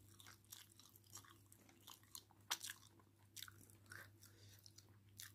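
A person chewing food, faint, with soft irregular wet mouth clicks and smacks, over a steady low electrical hum.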